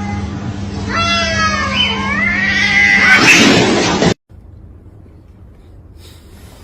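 A cat caterwauling: long, drawn-out yowls that bend up and down in pitch and grow louder, then cut off abruptly about four seconds in, leaving only a faint background.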